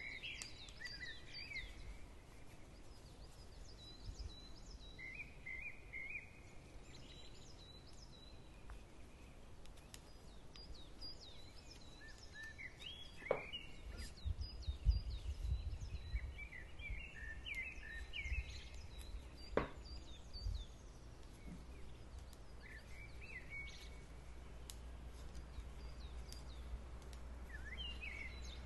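Small birds singing and chirping in short, scattered phrases. About halfway through come two sharp clicks several seconds apart, with a low rumble between them.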